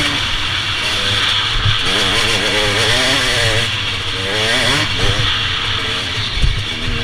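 Motorcycle engine running as it is ridden, its pitch rising and falling repeatedly with the throttle, over a steady rush of wind noise.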